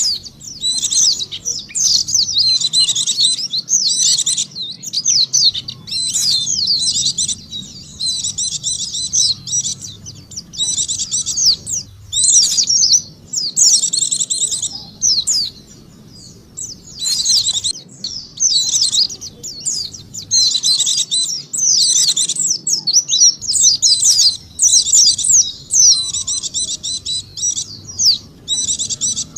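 White-eye (pleci) song from a bird-lure recording: rapid, high twittering chirps in phrases of one to two seconds, separated by short pauses.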